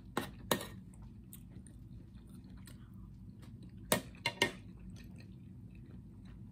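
Close-up chewing and mouth sounds of someone eating, broken by sharp clicks of utensils and hands against the dishes: two soon after the start and three in quick succession about four seconds in.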